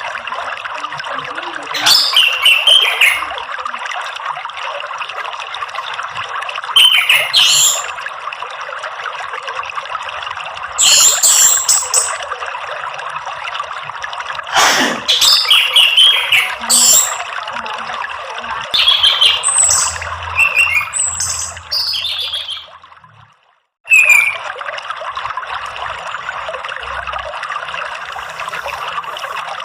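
Orange-headed thrush singing short, warbling phrases every few seconds over a steady rush of running water. The whole sound fades out briefly about two-thirds of the way in, then comes back.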